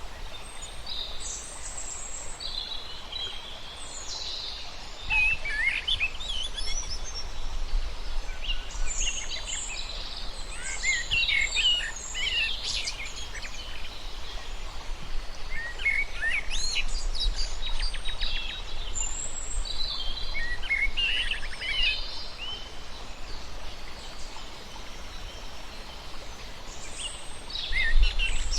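Several birds calling and chirping, with short bursts of quick chirps and rapid trills, over a steady background hiss of outdoor ambience.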